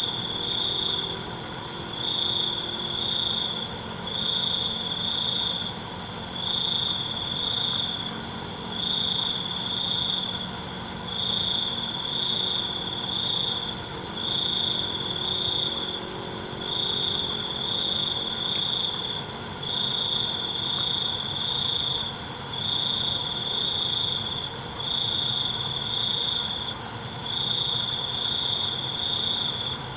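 Night chorus of crickets: one loud cricket trills in pulsing phrases of one to two seconds, repeated every couple of seconds, over fainter, higher trills and steady high-pitched buzzing from other insects.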